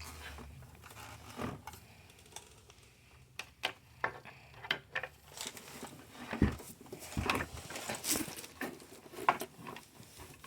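Scattered clicks, taps and rustles of a plastic humidifier being handled, its tank and base knocking and its cable and packaging rustling.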